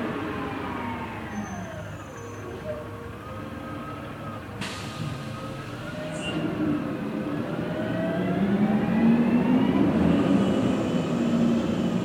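Recycling truck engine running, its pitch falling for the first couple of seconds and then climbing steadily and getting louder as the revs rise, with a sharp clank about four and a half seconds in.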